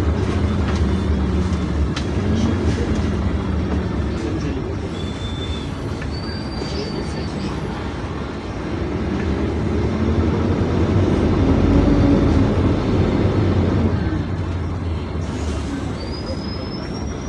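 Inside a PAZ-422320 Citymax 9 city bus on the move: steady engine drone and road noise. The engine note rises and then falls as the bus speeds up about halfway through, with a few short high-pitched squeals.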